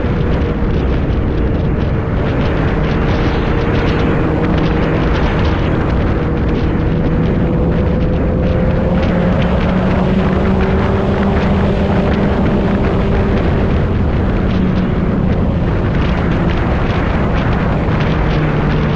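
Motorcycle engine running at a steady cruise during a ride, its pitch drifting slowly up and down, under a loud, steady rush of wind.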